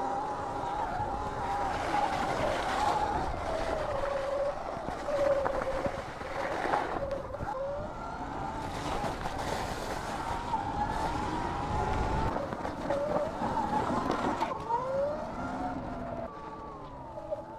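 Sur-Ron electric dirt bike's motor whining as it rides through deep snow, the pitch rising and falling with the throttle and climbing steadily near the end, over a steady hiss.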